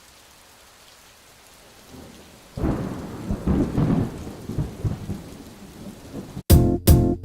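Steady rain falling, joined about two and a half seconds in by a long, uneven rumble of thunder. Music with a strong regular beat cuts in abruptly near the end.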